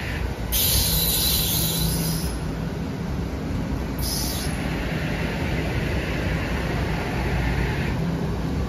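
Train running past, a steady low rumble and hum. A high hiss comes in about half a second in and lasts nearly two seconds, and a second, briefer hiss follows about four seconds in.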